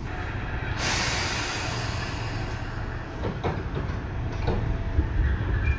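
Tobu 9000 series electric commuter train running at speed, heard from inside the car: a steady rumble of wheels on rail. The noise jumps up suddenly about a second in, and a few rail-joint clicks come through in the second half.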